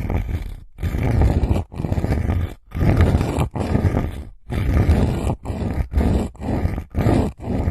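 Rough rubbing or scratching strokes close against a microphone, a little more than one a second, each a dense low-heavy noise broken by a brief gap.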